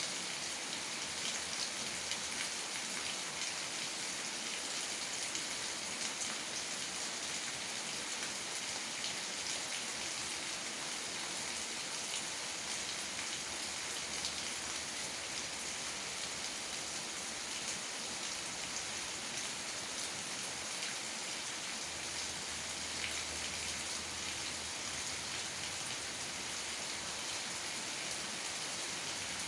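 Steady rain falling, a dense mix of small drop impacts that holds even throughout.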